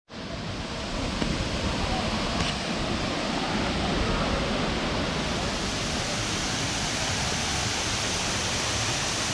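Waterfall rushing: a steady hiss of falling water that fades in at the very start and then holds level.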